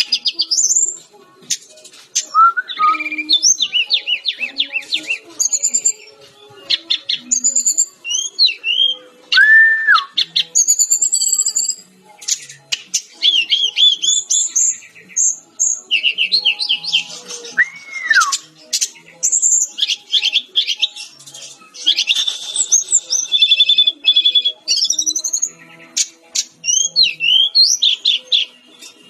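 A fulvous-chested jungle flycatcher singing a fast, varied song of high chirps, twitters and slurred trills, with a couple of lower arched whistles mixed in.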